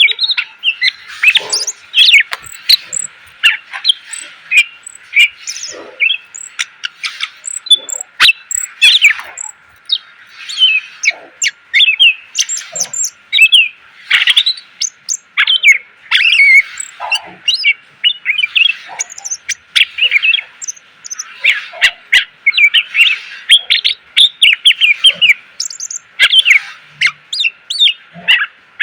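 Green leafbird (cucak ijo) singing a fast, unbroken song of sharp chirps, whistles and clicking notes, full of mimicked phrases.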